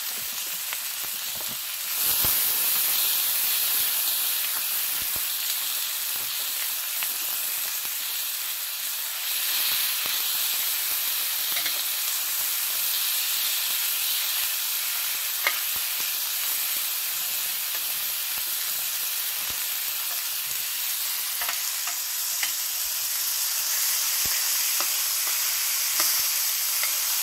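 Food sizzling as it fries in oil in a large paella pan over a wood fire, a steady hiss that grows louder about two seconds in. A few faint clicks sound here and there.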